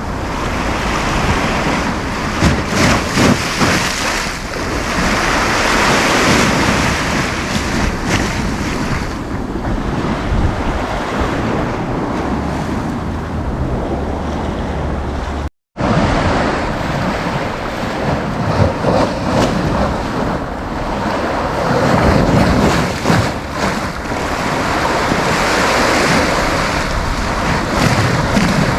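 Sea waves breaking and washing up the beach in slow swells, with wind buffeting the microphone. The sound cuts out completely for a split second about halfway through.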